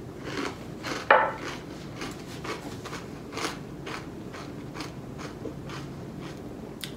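A person chewing a mouthful of cereal with blueberries: irregular soft crunching and small mouth clicks, with one sharper click about a second in.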